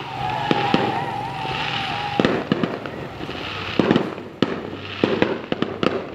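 Fireworks going off: a string of sharp bangs and pops over repeated swells of crackling hiss. A wavering whistle-like tone runs through the first two seconds.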